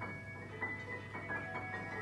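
Guzheng and piano duo playing a quiet passage: a string of single high notes, about three or four a second, each left ringing.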